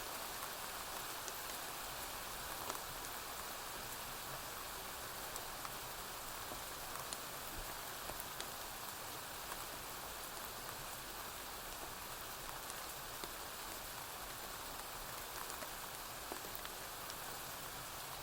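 Steady rain falling on a porch roof, with scattered faint sharp pops of a crackling wood fire.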